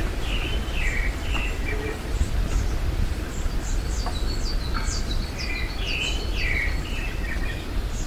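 Birds singing: two spells of short whistled phrases that step down in pitch, with thinner high chirps between them, over a steady low rumble.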